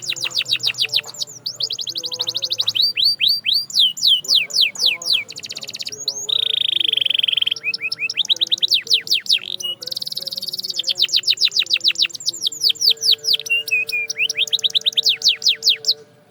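Canary singing: long rapid trills of repeated notes, each sweeping downward, in runs that change speed. About six seconds in there is one steady held note lasting about a second and a half before the fast trills resume; the song stops abruptly near the end.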